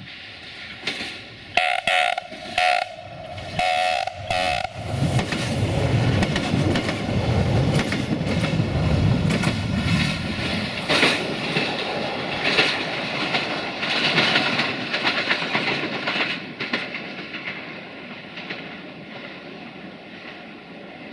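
Duewag Class 628 diesel multiple unit sounding a few short horn blasts as it approaches. It then passes close by, its diesel engine running under load and its wheels clacking over the rail joints, and fades away after about 16 seconds.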